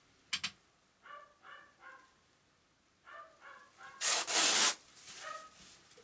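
A small dog whining in short, pitched yips, in quick runs of three. A sharp click comes just after the start, and a loud burst of rustling noise about four seconds in.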